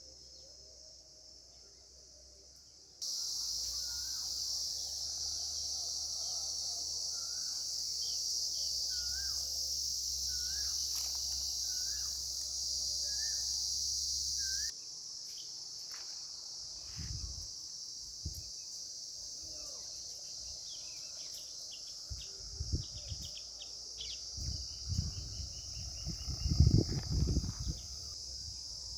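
Steady high-pitched drone of insects, which starts abruptly about three seconds in and drops in level midway. A bird repeats a short looping call about once a second during the loud part. Low rumbling thumps come and go in the second half and are loudest near the end.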